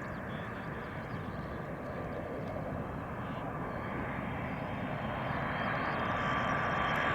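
Boeing KC-135R Stratotanker's four CFM56 (F108) turbofans as it comes in to land: a broad jet rumble growing steadily louder. A thin, steady whine joins it in the last couple of seconds.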